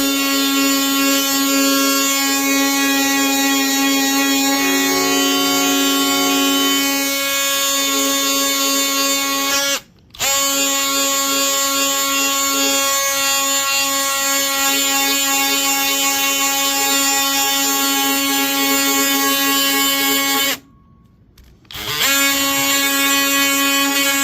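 Cordless DeWalt 20V Atomic oscillating multi-tool running with a sanding pad on wood, a steady high buzz. It stops for a moment about ten seconds in and again for a second or two near the end before starting back up.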